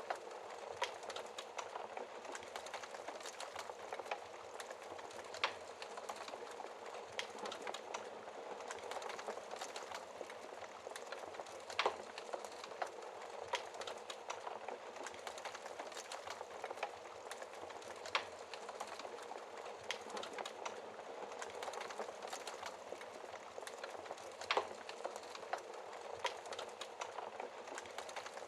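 Wood fire burning in a fireplace: a steady hiss of crackling logs with many small crackles and a few louder pops, about every six seconds.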